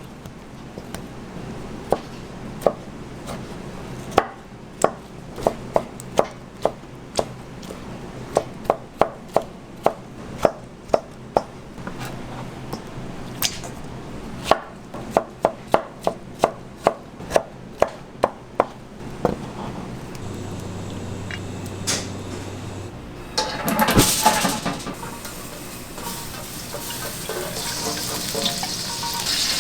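Knife chopping on a cutting board in a commercial kitchen: single sharp strokes, sparse at first, then a quicker run of about two a second that stops about two-thirds of the way in. Near the end comes a louder stretch of kitchen clatter and rustling.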